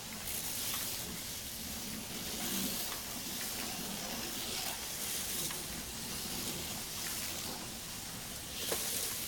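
HO-scale slot cars running laps around the track: a steady high hiss and whir from their small electric motors, with a single sharp click near the end.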